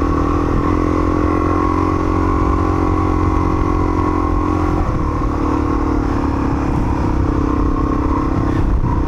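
Motorcycle engine running steadily under way. Its note steps to a new pitch about a second in and again about five seconds in.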